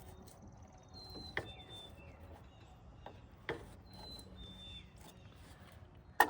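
Scattered clicks and knocks of hand-tool work on a riding mower: a few sharp metallic clicks a second or two apart, the loudest near the end, with faint bird chirps.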